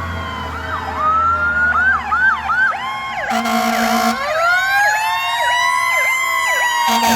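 Several fire engine sirens sounding at once: slow wails rising and falling, overlapped by fast yelp sweeps, over the low rumble of a truck engine that fades out about two and a half seconds in.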